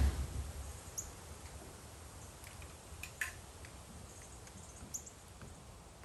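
Outdoor ambience with a few faint, short, high bird chirps. It opens with a loud low thump on the microphone, followed by a brief low rumble.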